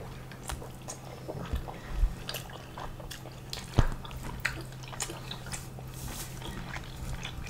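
Close-miked chewing and wet mouth smacks of two people eating spicy pork and rice by hand, with scattered soft clicks from fingers in the food. A faint steady low hum lies underneath.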